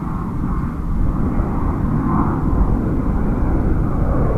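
Jet airliner engines at takeoff power: a loud, deep, steady rumble with a rushing band that swells about two seconds in.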